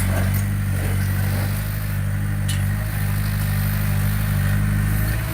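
Heavy diesel engine of earthmoving equipment running steadily at a constant speed, with a single short click about halfway through.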